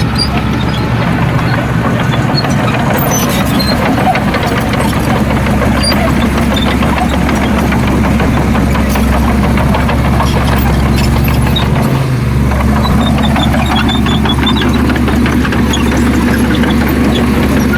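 Heavy diesel engine running steadily with a low, even hum, dipping briefly about twelve seconds in.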